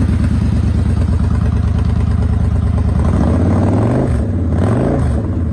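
2014 Victory High-Ball's Freedom 106 V-twin idling with an even pulsing beat, then blipped twice in quick succession about three and a half seconds in, each rev rising and dropping back to idle.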